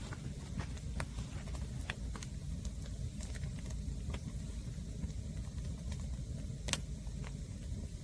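Fire of green firewood burning: scattered sharp crackles and pops over a steady low rumble, with one louder pop late on.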